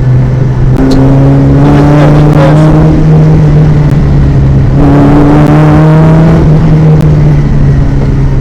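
Rally-prepared VW Golf GTI Mk1's four-cylinder engine heard from inside the cabin, loud under hard acceleration. Its pitch climbs twice, about a second in and again about five seconds in, over a steady low drone.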